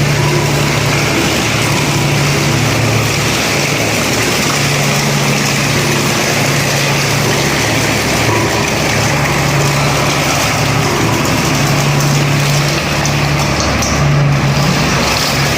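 Road roller's engine running steadily, its low drone swelling and easing every few seconds.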